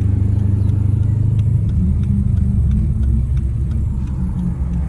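Car driving along the road: a steady low engine and road-noise rumble, with the engine pitch shifting slightly partway through.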